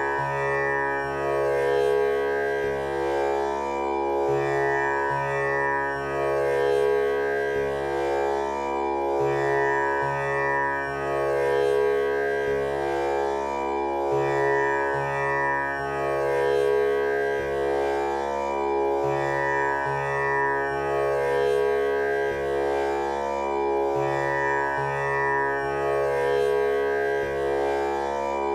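Tanpura drone tuned to C# for a male voice, its strings plucked one after another in a steady cycle that repeats about every five seconds, with the rich buzzing overtones ringing on between plucks.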